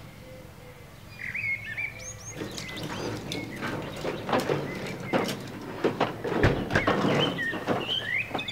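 Small birds chirping in short, quick calls. From about two and a half seconds in, a dense run of sharp clicks and knocks gets louder.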